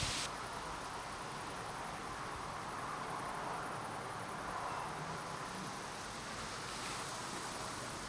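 Steady rushing hiss of thunderstorm wind and rain outdoors. The brighter upper hiss drops away abruptly just after the start.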